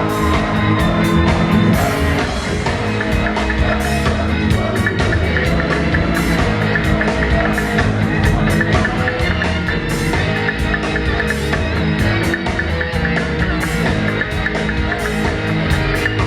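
Live reggae band playing without vocals: a steady bass line under drums with a regular, even beat, and guitar.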